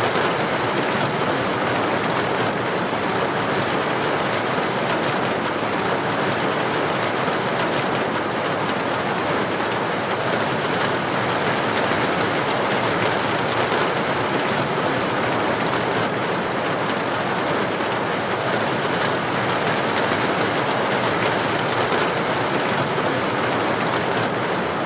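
Heavy rain falling steadily on a street: an even, unbroken hiss.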